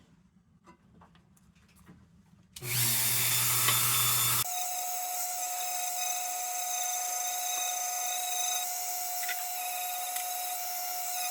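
Near silence at first, then a small power tool with a worn 180-grit sanding wheel starts up a little over two seconds in and runs with a steady high whine while contouring the patched tin bottom of the lantern.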